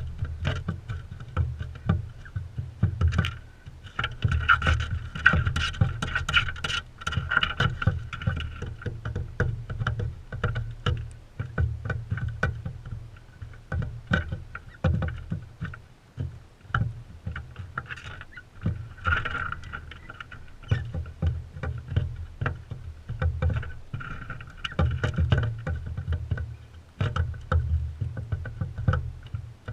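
Crimson rosellas feeding right beside a GoPro: many rapid, irregular taps and clicks of beaks and feet on the feeder over low thuds close to the microphone, with a few short stretches of a steadier pitched sound.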